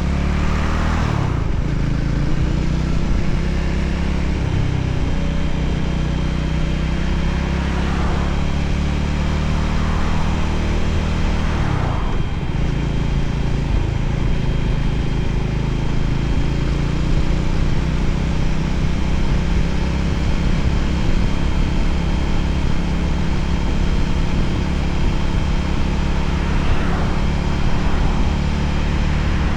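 Voge 300ACX motorcycle's single-cylinder engine running steadily under way, with wind rushing past. A few brief swooshes swell and fade along the way.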